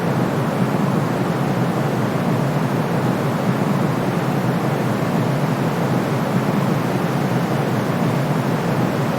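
Steady white noise for sleep: an even, unchanging hush with no breaks. It is fuller in the low range than a bright hiss.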